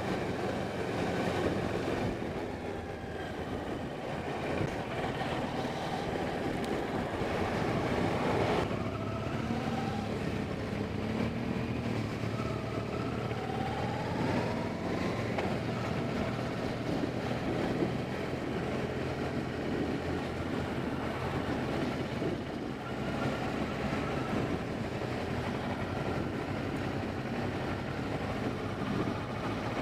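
A motorcycle on the move: steady engine and wind noise throughout, with the engine note rising and falling a few times around the middle.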